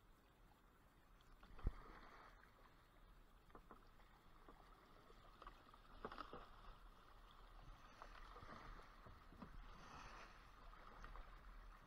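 Faint swishes of a kayak paddle stroking through water, coming every few seconds, with one sharp knock near the start.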